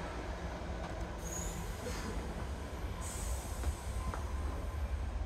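Steady low rumble of a moving passenger train, heard from inside the carriage, with a brief high hiss about a second in and again about three seconds in.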